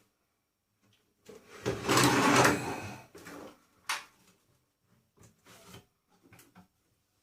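Metal parts of a microwave oven being handled as it is stripped for scrap: a loud scraping rattle lasting about a second and a half, then a sharp click and a few light knocks.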